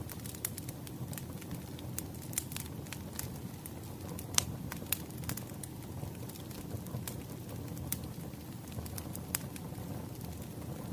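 Wood fire crackling: a steady low rumble of burning logs with irregular sharp pops and snaps, one louder pop about four seconds in.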